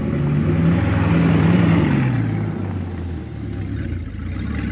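Bugatti Chiron Sport's quad-turbocharged W16 engine pulling away at low speed: its note rises and gets louder for the first couple of seconds, then drops back and fades a little as the car moves off.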